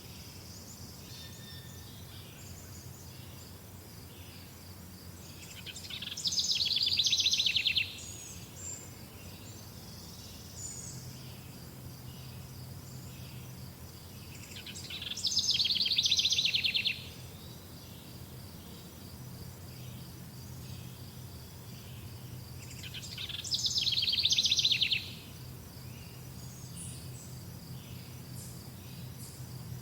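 A songbird singing the same loud rapid trilled phrase three times, about eight seconds apart, each phrase swelling and then ending abruptly. Under it runs a faint steady high-pitched chirping and a low hum.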